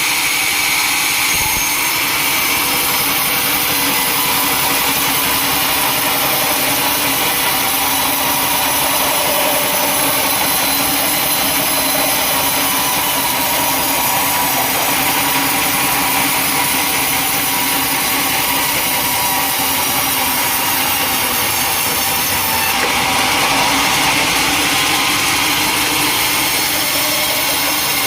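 Sawmill saw running steadily and cutting through a large log, a continuous machine drone with a slight change in tone near the end.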